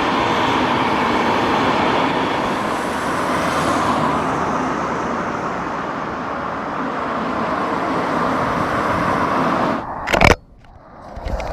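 Train passing close by: a steady, loud rushing rumble of wheels and air, cut off abruptly by a click about ten seconds in.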